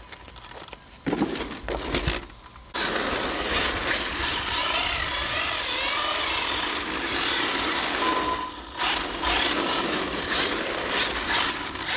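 Electric 1/8-scale RC drift cars running: a few knocks and clatter, then from about three seconds in the brushless motors whine up and down with the throttle over a steady hiss of the drift tyres sliding on pavement.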